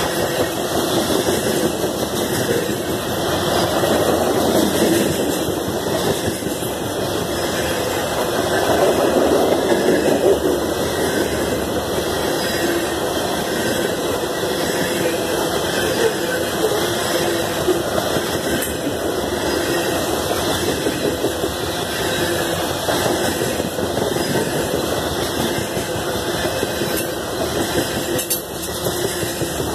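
Freight train of covered hopper cars rolling past close by: a steady noise of steel wheels on rail that swells twice in the first ten seconds.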